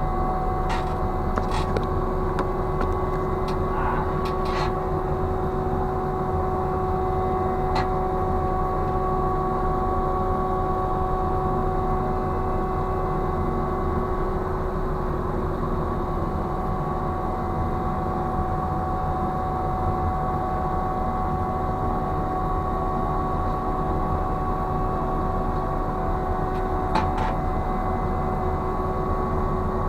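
Ship's machinery humming steadily with several fixed whining tones. There are a few faint clicks in the first five seconds and again about 27 seconds in.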